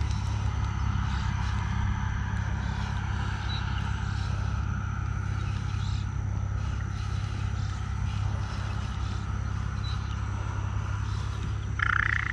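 A nesting bird calling in alarm over and over, upset by a person standing at its nest, over a steady low hum.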